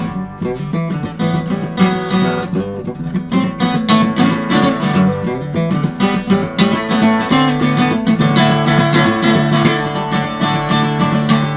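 Acoustic guitar music: a steady stream of plucked notes over a held low note.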